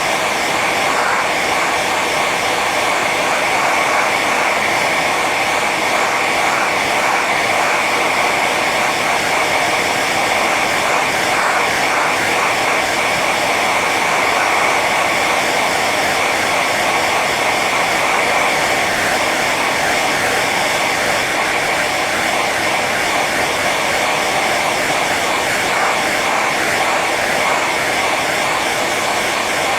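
Handheld hair dryer running steadily on its high setting: a constant rush of blown air over the whine of its motor and fan.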